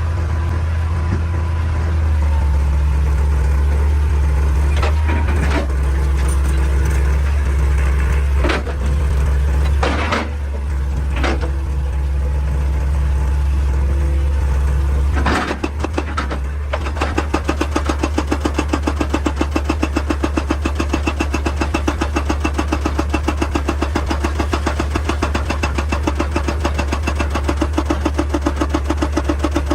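Heavy excavator's diesel engine running steadily, with several separate knocks of rock striking rock or steel. About halfway through, a steady rapid pounding of a few blows a second starts up and keeps going, like a hydraulic rock breaker hammering stone.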